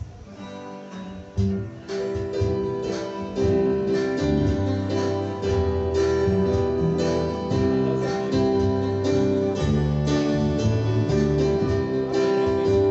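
A live gospel band plays the instrumental introduction to a song, led by a strummed acoustic guitar over changing low notes. It starts softly and fills out within about two seconds.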